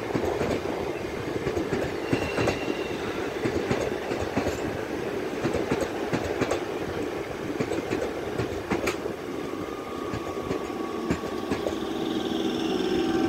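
Passenger train coaches rolling past, their wheels clicking over the rail joints in a steady clickety-clack over a rumble. A faint steady whine joins in near the end.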